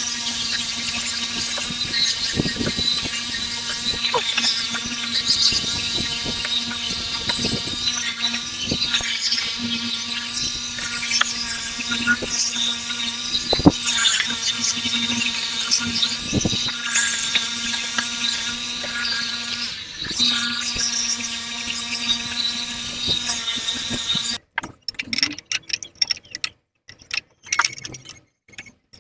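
Handheld power tool running steadily on metal, a motor whine with a high hissing squeal, while fabricating an exhaust pipe mount; it briefly dips about 20 seconds in and cuts off about 24 seconds in, followed by scattered light metallic clicks.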